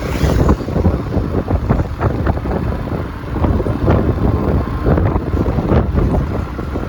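Wind buffeting the microphone on a moving scooter, with the ride's engine and road noise underneath in an uneven, gusty rumble.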